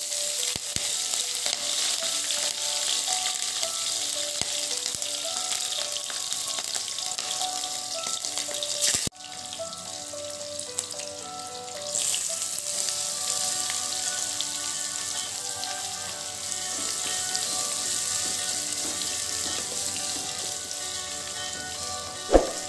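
Chopped green chillies sizzling in hot oil with mustard and cumin seeds in a kadai. The sizzle cuts off abruptly partway through, then comes back stronger as chopped onions go into the oil, with a sharp knock near the end.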